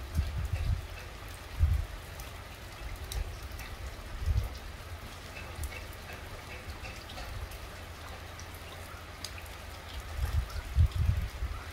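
Light rain falling on wet ground, a steady hiss with scattered individual drops ticking close by. A few short low thumps stand out about two seconds in, about four seconds in and twice near the end.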